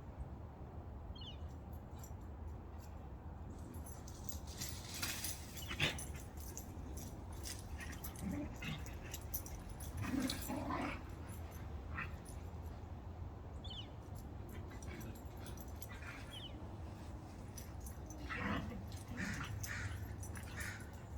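Two Australian Shepherd puppies play-wrestling: scattered short puppy vocalisations and scuffling over a steady low background hum, with a sharp knock about six seconds in.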